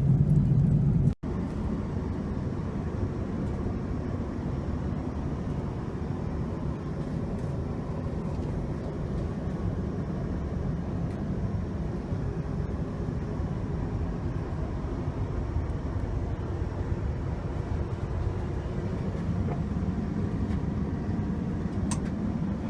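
Steady cabin noise of an Airbus A330-300 airliner in flight: an even rush of air and engine hum with no distinct events. A louder low hum at the start cuts off abruptly about a second in.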